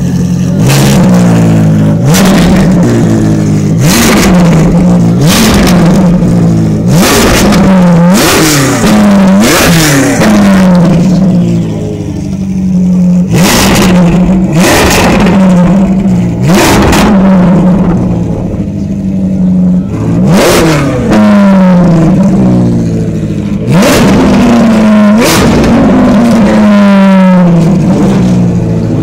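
Ferrari 458 Challenge's 4.5-litre V8 free-revving while standing still: a quick run of sharp throttle blips that climb fast and drop straight back, a few seconds on a steady idle, then blips spaced a few seconds apart.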